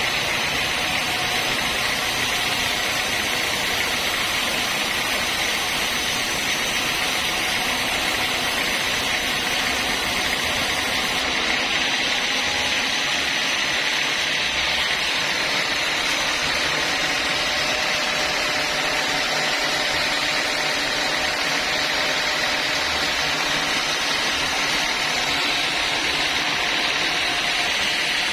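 Sawmill saw running steadily: a dense even hiss with steady whining tones. The highest part of the hiss drops away about halfway through.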